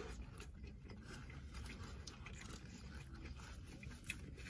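Faint biting and chewing of an A&W Teen Burger, close to the mouth, with small wet clicks and rustles and one sharper tick near the end, over a low steady hum.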